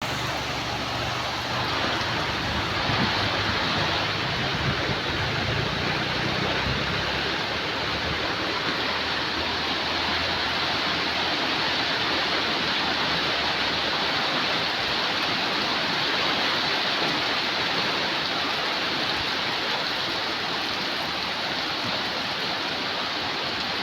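Heavy rain pouring steadily in strong wind, a dense, even hiss that does not let up.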